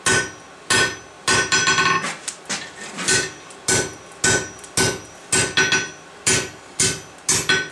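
Hand hammer striking a hot steel bar on an anvil, a little under two blows a second, each blow ringing briefly: drawing out the bar to lengthen and thin it for a campfire poker.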